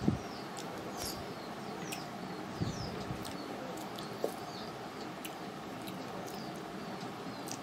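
Small birds chirping over and over in short falling notes, with faint clicks and a few low knocks in between.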